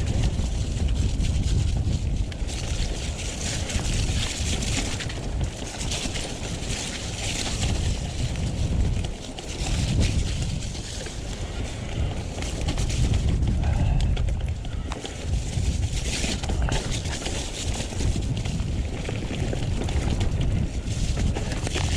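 Wind buffeting the action-camera microphone together with tyre and trail noise from a mountain bike riding down a muddy, slippery trail, with a low rumble that swells and dips and patches of hiss.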